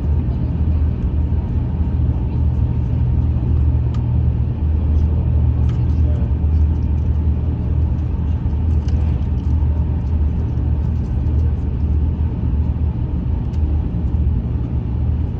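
French high-speed train (TGV Lyria) running, a steady low rumble that holds level throughout with a few faint ticks.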